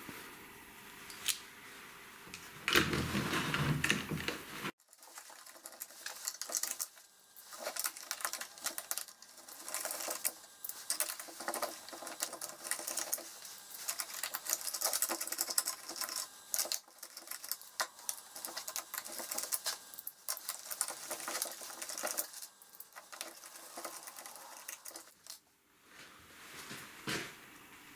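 Wooden single-cylinder compressed-air engine running: a rapid, uneven clatter over a steady hiss of escaping air. The builder says its intake valve leaks badly. A loud noisy burst about three seconds in cuts off abruptly before the clatter.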